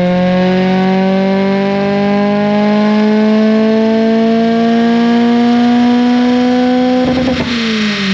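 NB2 Mazda Miata's 1.8-litre four-cylinder engine at full throttle in fourth gear, revs climbing steadily and slowly. About seven seconds in the note breaks up and the revs fall away as the throttle comes off.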